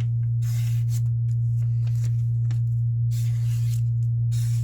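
Electric knife-and-scissor grinding machine's motor running with a steady low hum, while a knife blade is touched to the wheel in several short hissing grinding strokes, cutting a wave (scalloped) edge.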